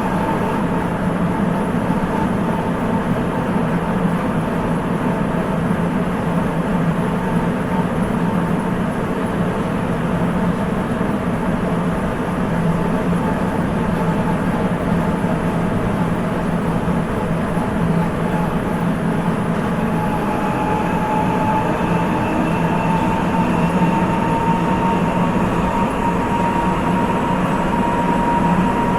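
Sapporo Municipal Subway 8000 series rubber-tyred train running through the tunnel, heard from inside the car: a steady running rumble with a whining tone that rises slightly in pitch over the last several seconds.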